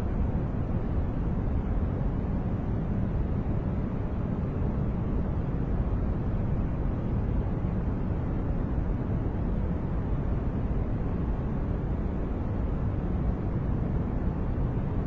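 Steady synthetic masking noise from a white-noise track: an even, deep rushing sound weighted heavily toward the bass, closer to brown noise than true white noise. There is no pitch, rhythm or change.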